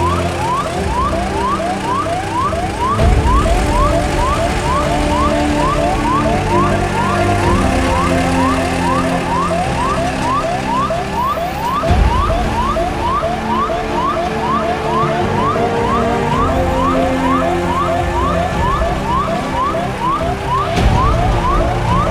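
Electronic siren sounding a fast, repeating rising sweep, about two a second, over a low rumble.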